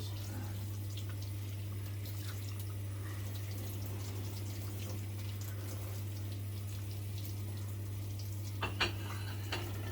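Water running from a kitchen tap into a sink during washing-up, steady throughout, over a constant low hum. A couple of light clinks come near the end.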